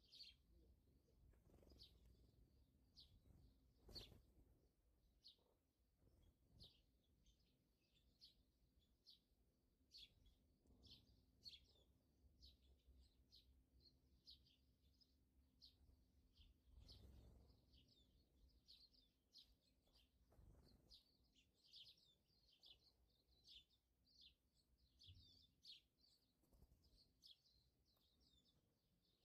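Faint birds chirping, many short high chirps a few times a second, over a faint low rumble.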